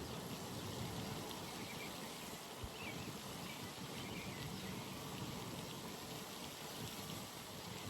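Outdoor pond ambience: a steady, even hiss of open-air noise with a few faint short chirps in the middle.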